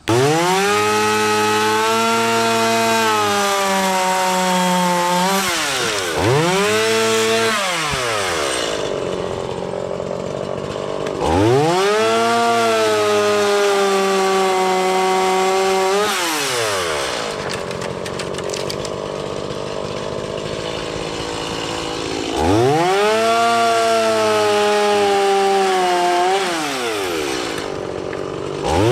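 Chainsaw bucking felled dead ash trunks into firewood lengths. The engine revs up to full speed for each cut, with the pitch sagging as the chain works through the wood, and drops back to a lower speed between cuts. Full-speed cuts begin near the start, about 11 seconds in and about 22 seconds in.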